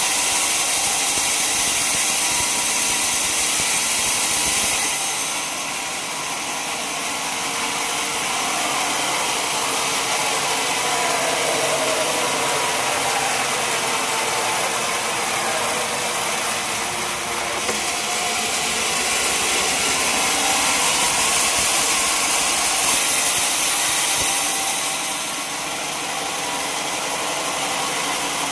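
Sawmill machinery running steadily: an engine and the hiss of the saw, which eases a little about five seconds in and again near the end.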